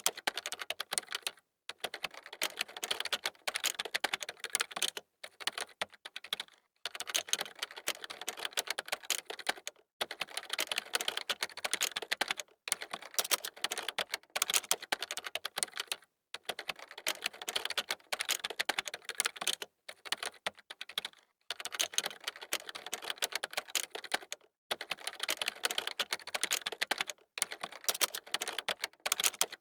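Fast typing on a computer keyboard: quick, dense runs of key clicks that break off into short pauses every few seconds.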